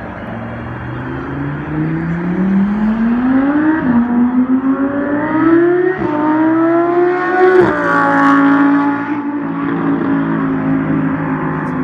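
Car engine accelerating hard through the gears: its pitch climbs and drops back at three upshifts about two seconds apart, then holds steady.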